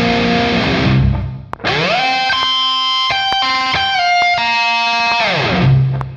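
Down-tuned Ibanez Alpha electric guitar played alone through a heavily distorted Kemper amp profile with reverb. A held distorted note fades about a second in. After a short break, a note slides up into a few sustained high notes, then slides down into a low held note near the end.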